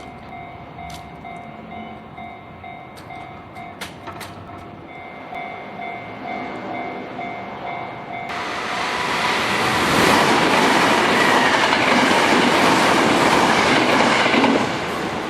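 Japanese level-crossing warning bell ringing its repeating two-tone clang, with a few sharp clicks, until it cuts off about eight seconds in. An electric commuter train on the Hanshin Main Line then passes at speed with loud wheel and rail noise, which drops away near the end.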